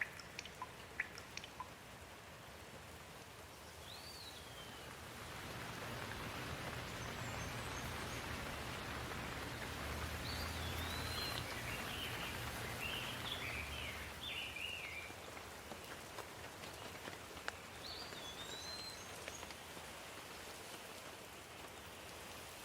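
Steady rainfall that builds heavier for several seconds and then eases off, with a bird giving a few short chirps through it and a low rumble underneath in the heavier middle stretch.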